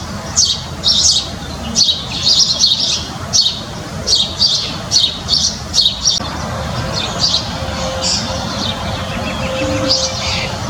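Backyard songbirds chirping: a quick run of short, high chirps for about the first six seconds, then only a few scattered calls over a steady background hiss.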